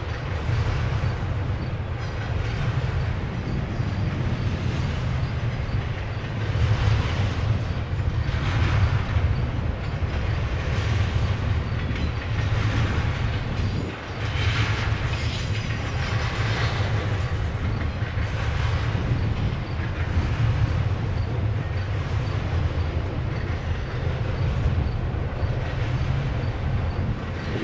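Double-stack intermodal freight cars rolling past: a steady low rumble of steel wheels on rail, with surges of clatter every second or two as the wheel trucks pass.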